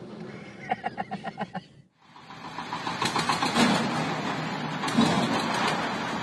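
Heavy truck engine running with a rapid pulsing beat. About two seconds in it cuts to a louder, rougher mix of engine and mechanical noise.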